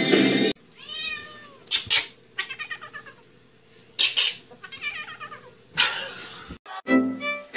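A domestic cat meowing and yowling in a string of separate calls, several in a row over about six seconds. Music cuts off just before the calls begin and returns near the end.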